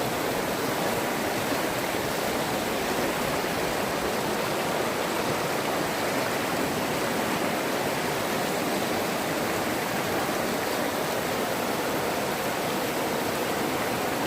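Waterfall on a forest river: falling water rushing and splashing in a steady, unbroken noise.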